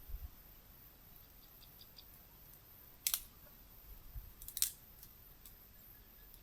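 Two short sharp clicks or snaps about a second and a half apart, with a soft low thump between them, over a faint background.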